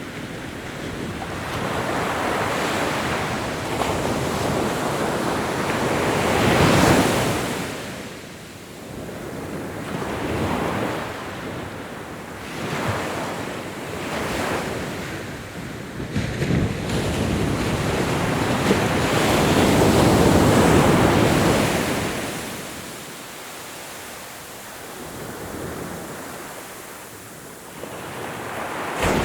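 Ocean waves breaking and washing on a shore, several swells building and falling away, the biggest about seven seconds in and a longer one around twenty seconds in, with wind across the microphone.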